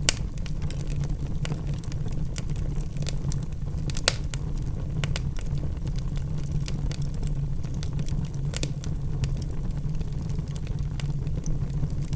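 Logs burning in a fireplace: irregular crackling and popping over a steady low rumble of the fire, with sharper pops right at the start, about four seconds in, and again about eight and a half seconds in.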